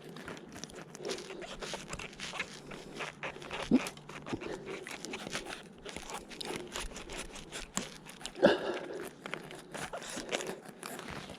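Rustling and crackling of hands picking wild oyster mushrooms off a tree, with many small clicks and a few sharper snaps, the loudest a little past eight seconds in.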